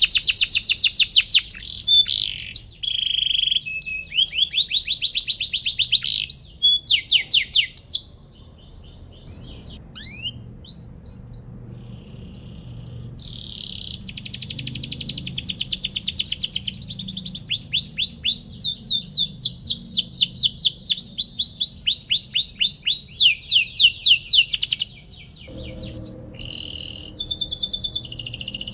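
Domestic canary singing in long, fast trills of repeated high chirps. The song thins to a few scattered notes for several seconds about a third of the way in, then runs on in trills with a short break near the end.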